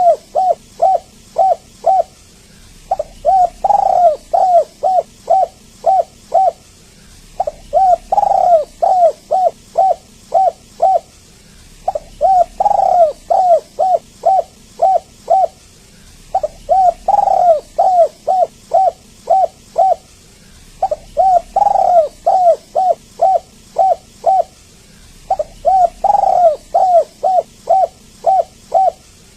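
Spotted dove cooing in repeated phrases, about one every four and a half seconds: each phrase is a longer slurred coo followed by a quick run of about five short coos.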